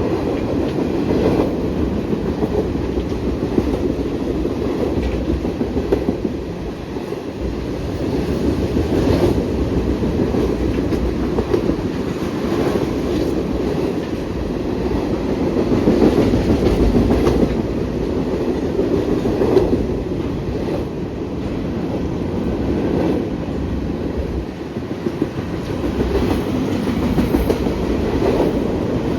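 Freight train cars rolling past close by, a steady rumble of wheels on rail with clicks from wheels crossing rail joints, swelling and easing slightly as the cars go by.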